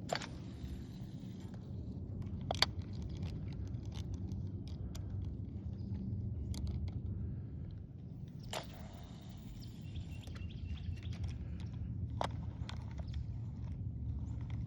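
Steady low outdoor rumble with four sharp knocks spread out through it.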